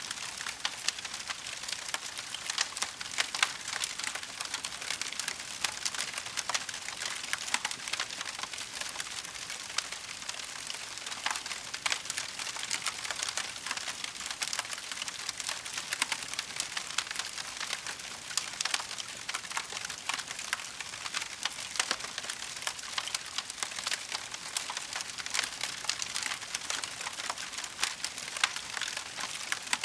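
Wood fire burning in a fireplace, crackling steadily with a dense stream of small sharp pops and snaps.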